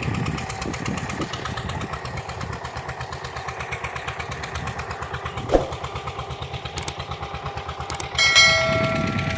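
Tractor diesel engine running with a steady, rapid low beat. A sharp knock sounds about halfway through, and a horn beeps for about a second near the end.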